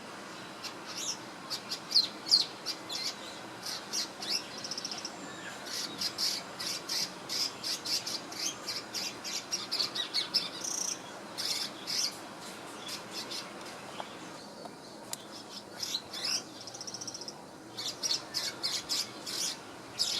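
Small swiftlet-like bird chirping in rapid runs of short, high chirps, with a brief pause about fourteen seconds in.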